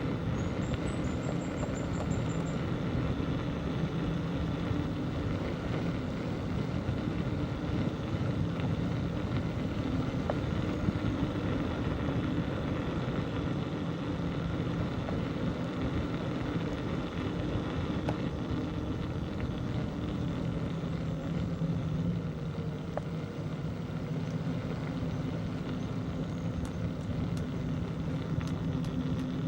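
Steady riding noise from a bicycle on a village road, with a low even hum throughout. A few faint bird chirps in the first two seconds.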